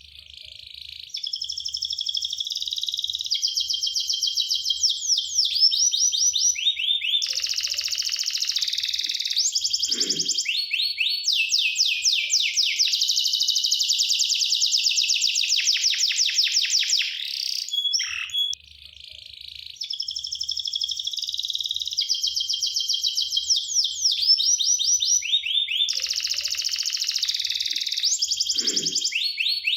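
Domestic canary singing a long, loud song of rapid trills of repeated high notes and quick rolling phrases, broken by a short pause about two-thirds through.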